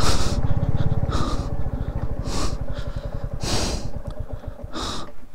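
Motorcycle engine running at low revs, its beat slowing and growing quieter as the bike eases off. Over it come short hissy breaths into the microphone about once a second, the rider breathing hard in thin air near 19,000 ft.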